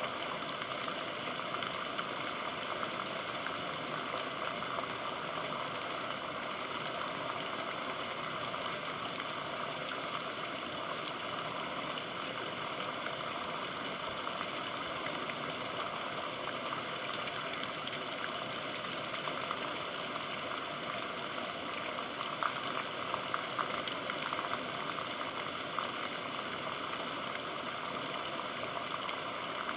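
Steady rain, an even hiss with now and then a sharper tick of a single drop, several of them in the second half.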